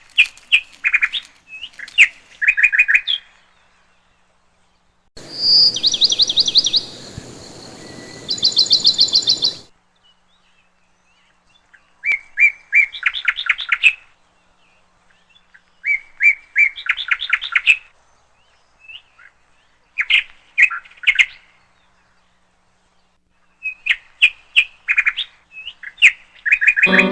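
A bird chirping in repeated bouts, each a quick run of sharp chirps, with short pauses between bouts. From about five to ten seconds in, the chirps are higher and a steady hiss sits behind them.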